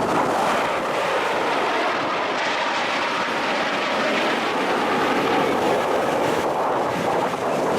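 Jet aircraft flying overhead, a steady rushing engine noise.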